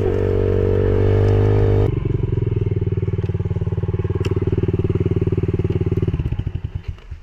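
Yamaha TTR110E pit bike's single-cylinder four-stroke engine running steadily, then dropping to idle with an even pulse about two seconds in. The idle slows and the engine stops near the end, switched off.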